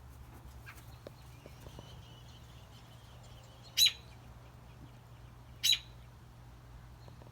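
A pet bird chirping: two short, sharp chirps about two seconds apart, preceded by a faint thin drawn-out call.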